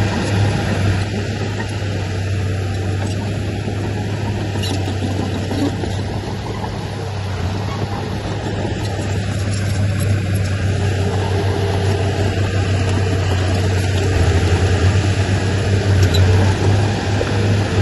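Diesel engine of heavy earthmoving machinery running steadily under load, with a deep hum that grows louder near the end.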